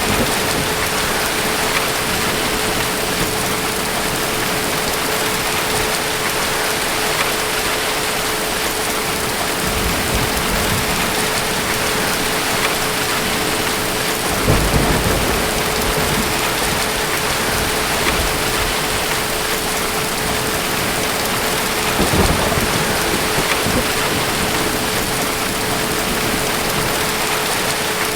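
Steady heavy rain with distant thunder rumbling low; the rumble swells about halfway through and again near the end.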